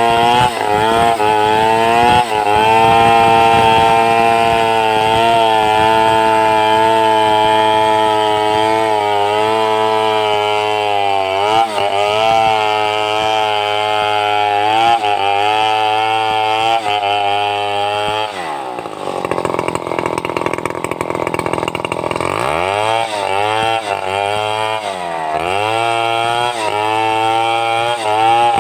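Two-stroke chainsaw running at high revs while sawing timber into boards. About two-thirds of the way through, the engine drops sharply toward idle for a few seconds, then revs back up, dips once more briefly and holds steady at speed.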